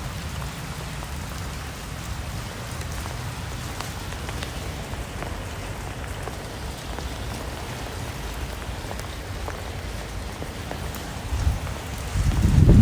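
Steady rain falling, an even hiss with scattered single drops ticking. A louder low rumble comes in near the end.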